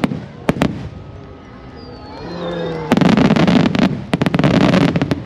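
Aerial fireworks going off: a few sharp bangs in the first second, then, from about three seconds in, a dense run of crackling bursts that stops just before the end.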